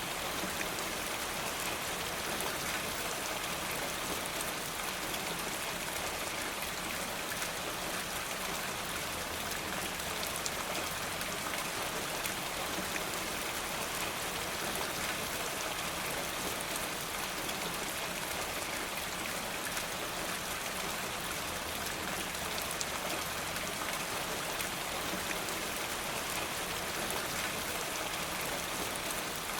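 Steady rain falling, a continuous even hiss dotted with many small sharp drop ticks.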